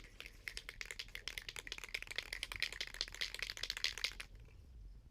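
An aerosol can of high-temperature gray primer being shaken, its mixing ball rattling rapidly inside before spraying; the shaking stops about four seconds in.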